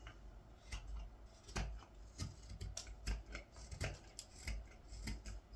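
Carving knife slicing green wood of a ladle handle, a series of short crisp cuts at an uneven pace, about one or two a second.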